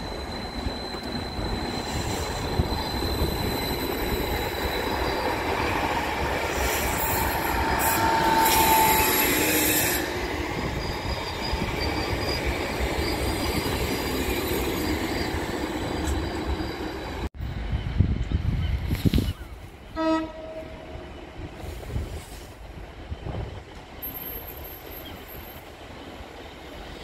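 A train running through the station, loudest about eight seconds in, with a high squeal. After an abrupt cut, a short horn note sounds a little later, then quieter rumbling.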